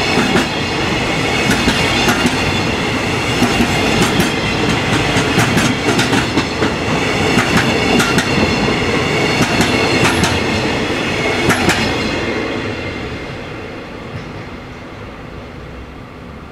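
Freight train's container flatcars rolling past, wheels clacking rhythmically over the rail joints. The sound fades away from about twelve seconds in as the last cars pass.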